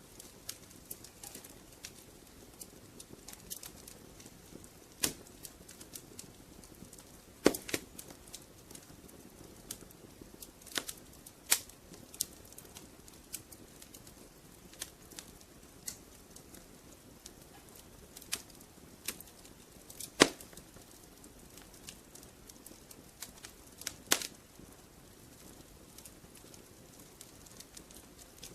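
Wood fire crackling in a fireplace: irregular sharp pops and snaps, a few much louder than the rest, over a faint steady hiss.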